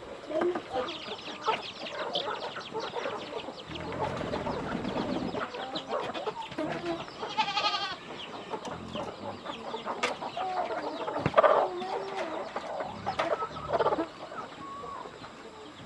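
Chickens clucking and calling, many short calls overlapping, with a couple of sharp knocks about ten and eleven seconds in.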